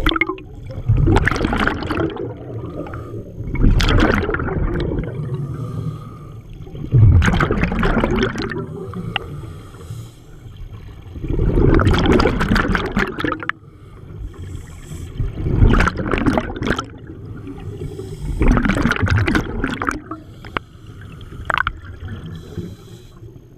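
Underwater scuba breathing through a regulator: a bubbling, gurgling rush of exhaled bubbles comes every few seconds, with quieter stretches of inhalation between.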